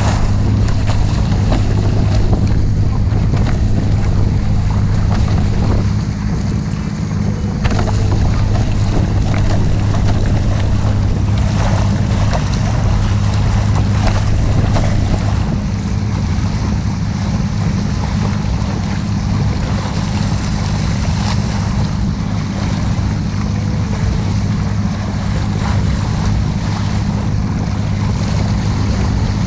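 Motorboat engine running at a steady drone, with rushing water and wind buffeting the microphone.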